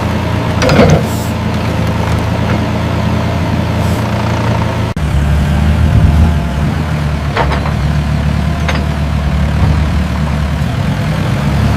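Mini excavator's diesel engine running steadily under load, its tone shifting abruptly about five seconds in, with a few sharp knocks over it.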